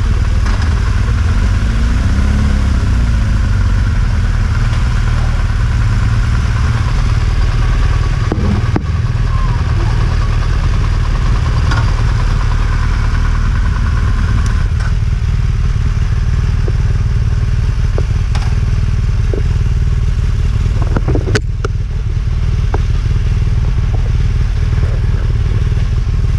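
Motorcycle running, a loud, steady rumble.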